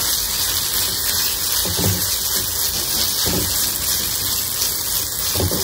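Sliced onions and ground masala frying in oil in an aluminium kadhai, giving a steady sizzle, while a wooden spoon stirs them, with a few soft scrapes.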